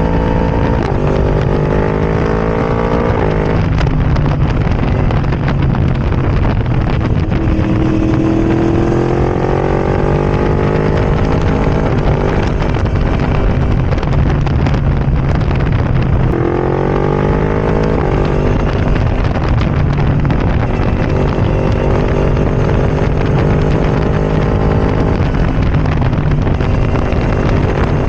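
Yamaha R1's crossplane inline-four running through a decatted Arrow Racing exhaust with no baffle, under way on the road. The engine note climbs and drops sharply several times as it revs up and shifts gear.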